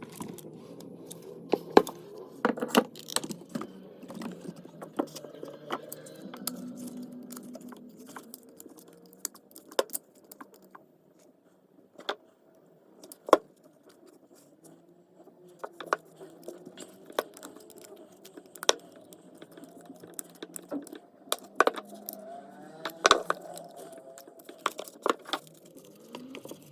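Irregular metallic clicks, clinks and taps of small parts of an old hand reloading tool being handled on a workbench, a few sharper knocks among them.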